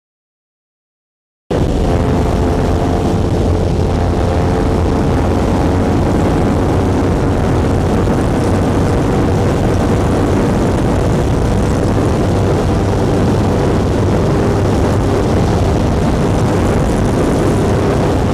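Silent for about the first second and a half, then the Kawasaki Ninja 400's parallel-twin engine running hard at high revs at highway speed, its pitch nearly steady, mixed with heavy wind rush.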